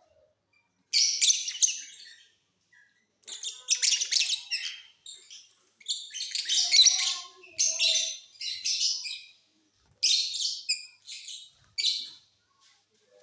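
Lovebirds chirping and chattering in shrill bursts of a second or two, with short pauses between the bursts.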